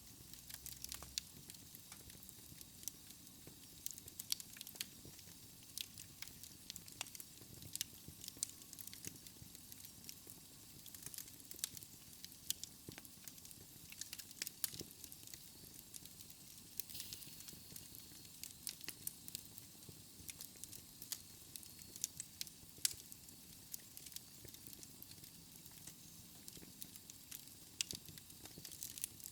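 Wood fire burning in a fireplace: a soft steady hiss with many small sharp crackles and pops at irregular intervals.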